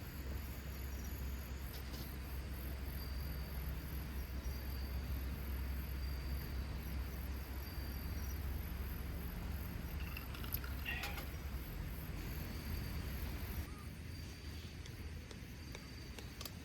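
Crickets and other insects chirping, a high, evenly pulsing trill, over a low steady rumble that eases near the end. A few sharp clicks come about two-thirds of the way through.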